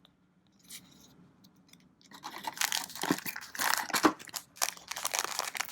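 Plastic wrapper of a trading-card booster pack being crinkled and torn open, a dense irregular crackling that starts about two seconds in.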